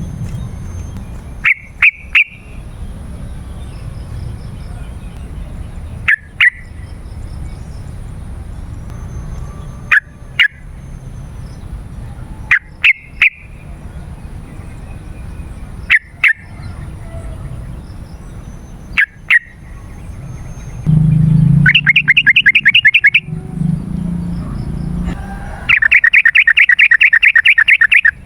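Yellow-vented bulbul singing: short, separate calls every few seconds, then two loud, fast rattling trills near the end, each about two seconds long, over a low background rumble.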